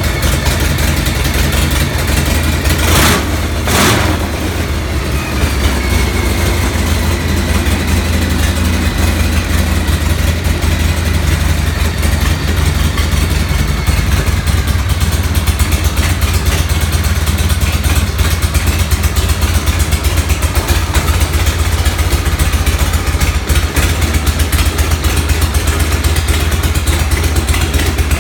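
A 93-cubic-inch Harley-Davidson Shovelhead V-twin engine, built mostly from aftermarket parts, running steadily at idle. It is revved twice in quick succession about three and four seconds in, then settles back to idle.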